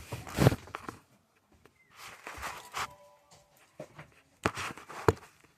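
Footsteps and scuffling handling noise, with a few sharp knocks; the loudest come about half a second in and again near the end.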